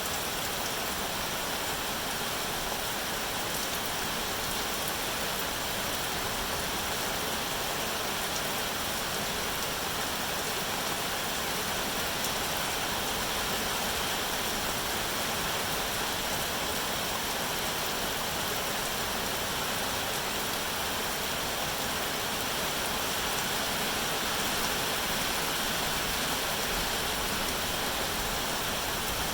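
Steady rain falling, an even unbroken hiss with no separate drops standing out.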